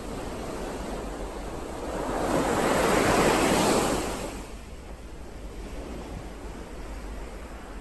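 Ocean waves breaking on a shore: one wave swells and crashes about two to three seconds in, then washes back into a quieter hiss of surf.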